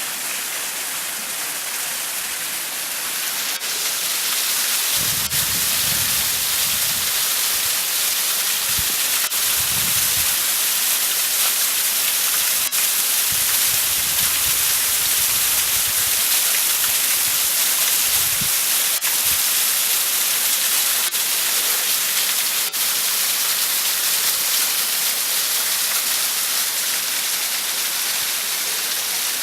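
Water of a partly frozen waterfall rushing under the ice: a steady, even hiss. A few short low rumbles come and go between about five and nineteen seconds in.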